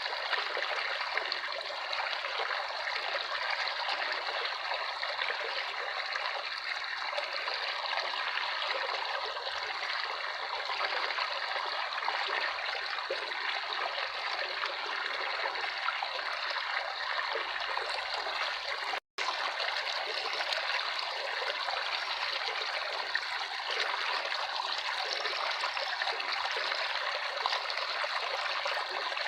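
Running water trickling steadily, like a small stream. It cuts out completely for a split second about two-thirds of the way through.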